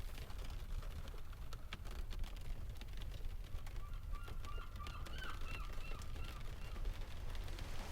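Fireplace crackling in sharp, irregular snaps over a steady low rumble. Midway through, a bird gives a string of short calls.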